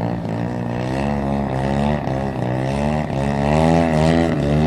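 Single-engine aerobatic propeller plane's engine and propeller running in slow, nose-high flight. The note wavers up and down and grows louder toward the end.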